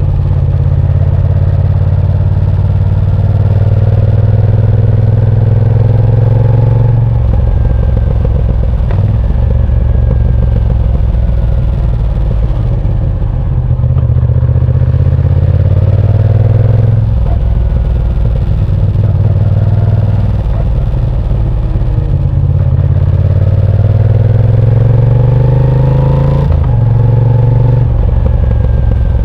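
Moto Guzzi V7 Sport's air-cooled transverse V-twin engine under way, its revs rising and falling as the bike accelerates and eases off through corners. The pitch climbs steadily several times and drops sharply about seven, seventeen and twenty-seven seconds in.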